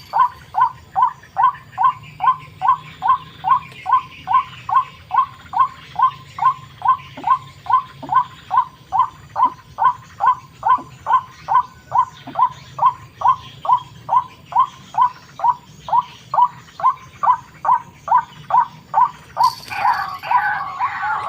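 White-breasted waterhen (ruak-ruak) call: one short note repeated steadily, a little over two a second. About a second before the end, a busier tangle of calls joins in.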